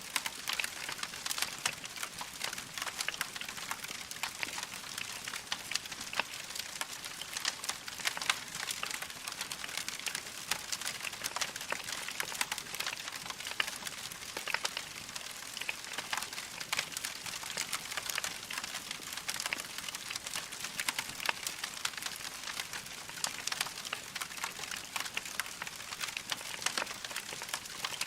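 Wood logs burning in a fireplace, crackling with a dense, irregular stream of small pops and snaps over a soft hiss.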